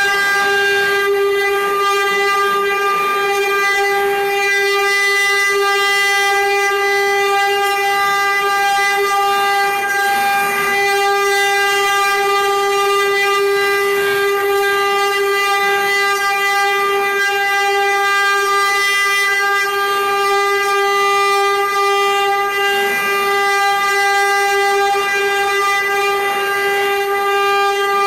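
Six-head CNC engraving and cutting machine running, its spindles giving a steady, high whine of unchanging pitch.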